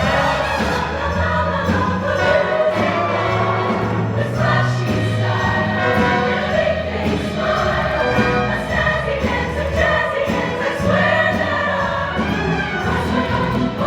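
Show choir singing in full ensemble over a live band backing with a steady bass line.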